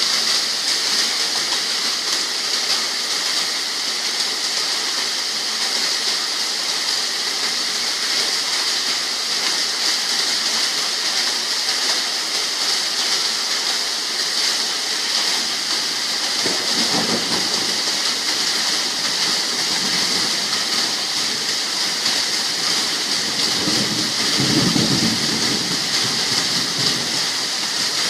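Steady rain falling with an even hiss. A low rumble comes up briefly about two-thirds of the way in, and again more strongly near the end.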